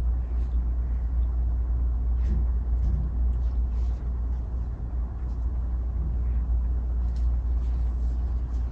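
Steady low rumble of room tone, with a few faint soft ticks.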